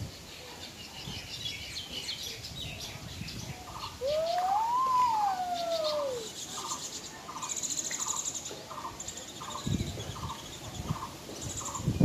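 Birds calling: a scatter of high chirps, then about four seconds in a loud whistle that rises and falls over about two seconds, followed by a run of short, evenly spaced notes about two a second.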